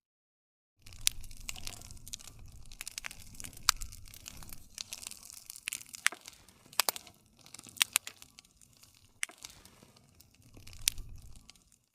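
Wood campfire crackling, with frequent sharp pops over a low rumble of flames. The sound starts after a brief silent gap about a second in.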